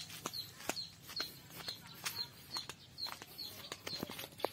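A bird chirping over and over, short high notes about twice a second, with footsteps on dry leaves and dirt.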